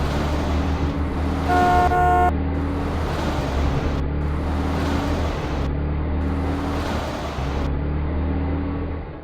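Vehicle engine sound effect running steadily, with one short horn toot about a second and a half in. The engine sound cuts off at the very end.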